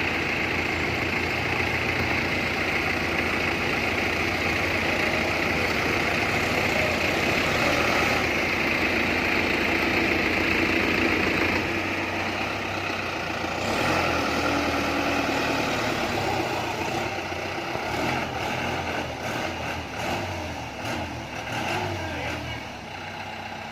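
Tumosan tractor's diesel engine running steadily and loudly. Its sound eases and turns more uneven after about twelve seconds.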